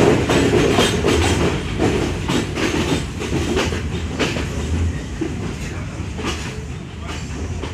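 Sri Lanka Railways class S12 diesel multiple unit running along the line, heard from on board: a steady rumble of wheels on track with irregular rail clicks, growing gradually quieter.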